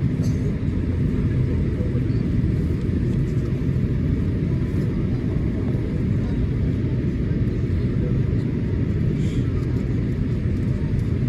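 Steady low rumble inside the cabin of a Boeing 787-8 airliner as it taxis, its engines at idle.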